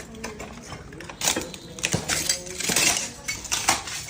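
Dishes and other household objects rattling, clinking and clattering as an earthquake shakes the apartment, with a dense run of sharp knocks from about a second in that eases near the end.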